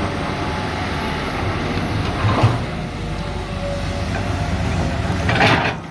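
Diesel engines of hydraulic excavators working under load with a steady low rumble. There is a clank about two and a half seconds in, and near the end a loud, brief scrape of a steel bucket on rock.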